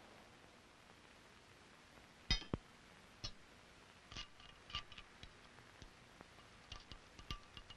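A few sharp knocks a little over two seconds in, then a loose string of lighter taps and clicks: hand work with tools on hard workshop pieces.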